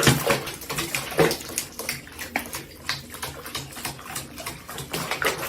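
Water splashing and sloshing, with many irregular small knocks and splashes.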